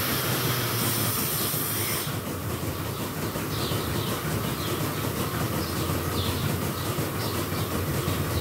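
Milking plant machinery in a dairy shed running steadily: a constant mechanical rumble with a high hiss that cuts off about two seconds in, after which a faint regular ticking sounds about twice a second.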